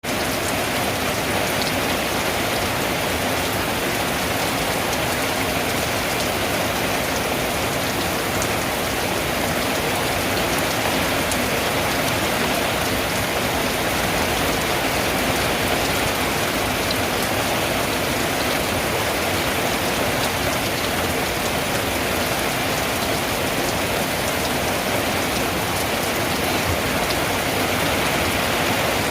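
Steady rain falling on a tin roof: an even, unbroken hiss with scattered single drop ticks.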